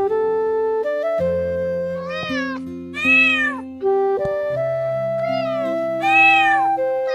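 A cat meowing four times, drawn-out rising-and-falling meows with the second and last the loudest, over soft flute music with long held notes.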